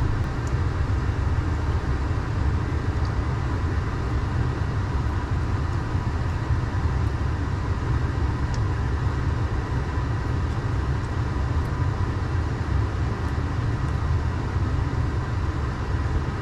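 Steady low rumble of a truck's engine idling, heard inside the cab, with a faint steady hum over it and a few light ticks.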